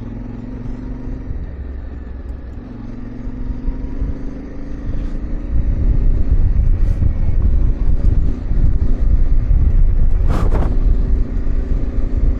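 Yamaha Ténéré 700's parallel-twin engine running under way on a dirt road, with road and wind noise; it grows louder about five seconds in. A short sharp knock about ten seconds in.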